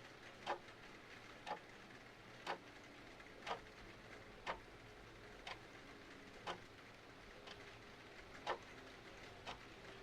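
Clock ticking steadily, about once a second, some ticks louder than others, over a faint steady hiss of rain and fireplace.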